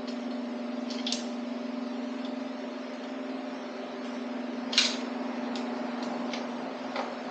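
Steady mechanical hum with a few sharp clicks and clinks of engine parts being handled during a teardown, the loudest about five seconds in.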